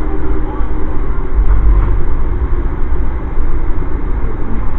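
Steady loud rumble of a moving passenger train, heard from aboard, deepest in the low end.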